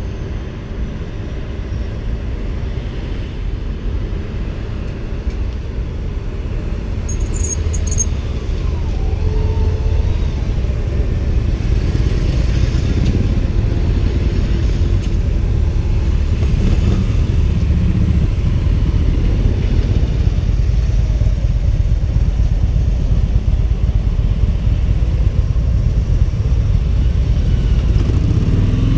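Steady low rumble of a motor vehicle running, growing louder over the first ten seconds and then holding steady.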